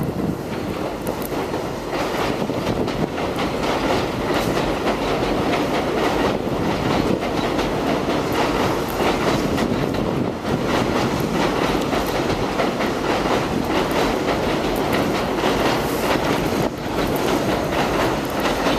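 A vehicle in motion: a loud, steady rushing rumble with frequent rattling clicks.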